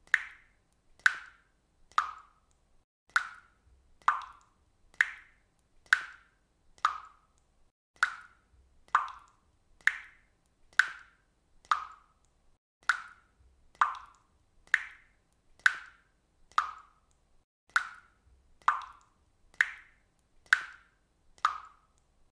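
Water dripping from a faucet, single drops plopping evenly about once a second, each a short ringing plop whose pitch shifts slightly from drop to drop.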